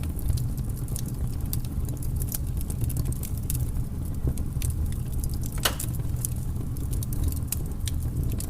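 Wood fire crackling in a fireplace: a steady low rumble of the flames with frequent small sharp pops, and one louder pop a little past the middle.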